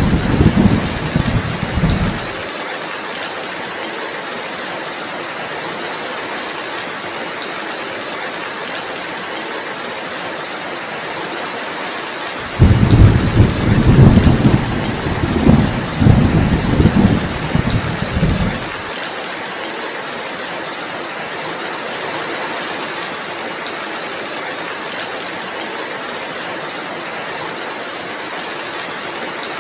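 Steady heavy rain, with a low roll of thunder that ends about two seconds in and another rumbling for about six seconds in the middle.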